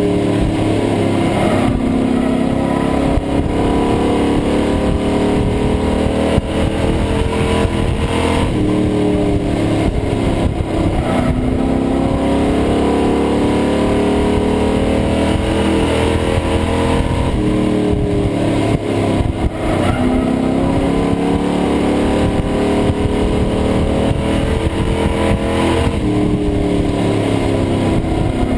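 Pro Truck race engine heard from inside the cab, the revs climbing and then dropping off again in a repeating cycle about every eight to nine seconds, as on the straights and turns of a lap.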